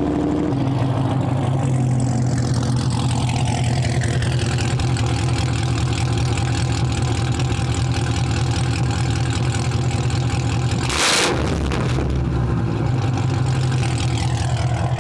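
Supercharged 6.2 L V8 of a 2022 Camaro ZL1, straight piped with 2-inch long-tube headers, idling steadily and loud. A faint tone glides down over the first few seconds, and there is a brief rush of noise about eleven seconds in.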